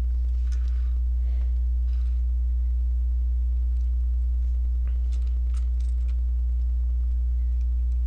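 Steady low electrical hum. Faint clicks and rustles of plastic Lego pieces being handled come in the first two seconds and again about five to six seconds in.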